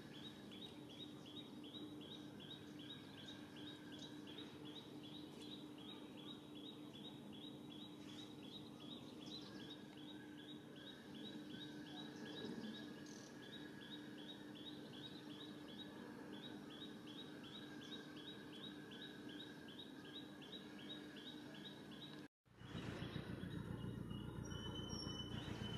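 Faint outdoor ambience with a bird chirping in a rapid, even series of short high notes, about four a second. About 22 seconds in it cuts off and gives way to a louder, low rumbling background.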